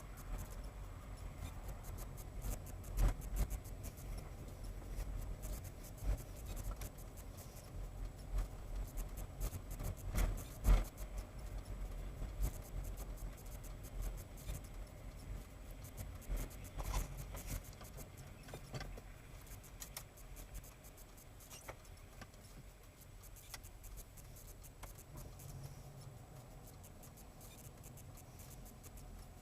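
Low rumble of a vehicle picked up by a dashcam microphone, with scattered clicks and knocks, the loudest about 3 and 11 seconds in, growing quieter near the end.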